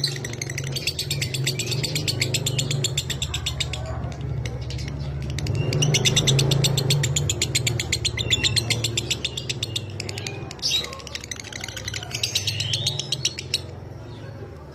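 Lovebird 'ngekek' song: long runs of very rapid, high, buzzy chattering trill, two runs of about four seconds each followed by shorter bursts. A steady low hum runs underneath.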